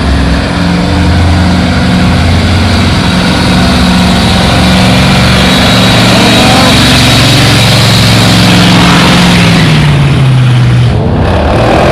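Dodge Challenger's engine running loud at steady high revs, its pitch falling about ten seconds in.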